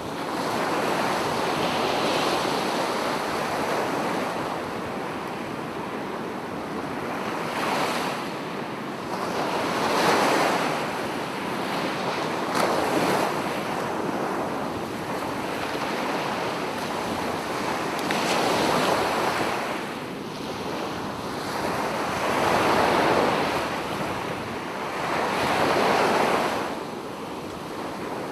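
Sea waves breaking and washing up on a beach, the surf swelling and falling back every few seconds.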